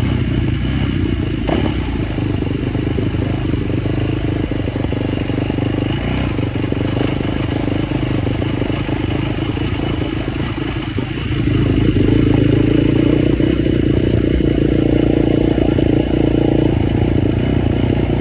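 Motorbike engine running steadily, getting louder about two-thirds of the way through.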